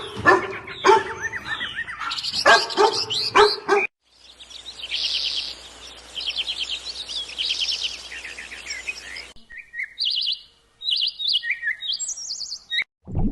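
Birds chirping in short edited clips: first a run of rapid trilling notes, then a string of short, separate high chirps. The first few seconds hold lower, wavering animal calls from a different clip.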